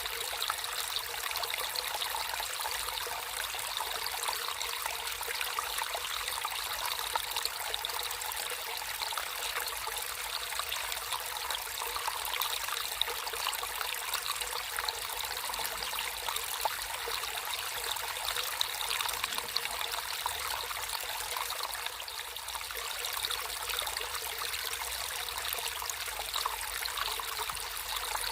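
Water trickling and splashing steadily in a small natural stream.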